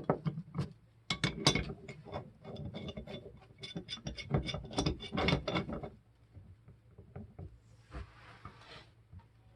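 Metal pipe wrench clicking and scraping on threaded gas pipe fittings as they are tightened, in a quick run of clicks for about six seconds that then gives way to a few faint knocks and a short rustle.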